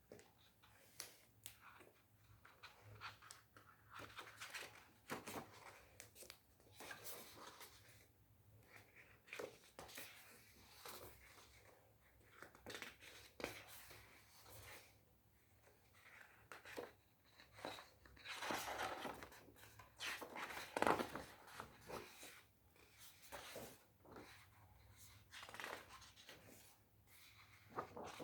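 Quiet, irregular rustling and small clicks of paper being handled, as when the pages of a picture book are turned, with a longer, louder rustle about two-thirds of the way through.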